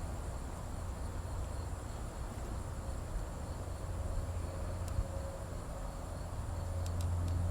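Steady high insect buzzing, like crickets, over a low steady hum, with a few faint clicks.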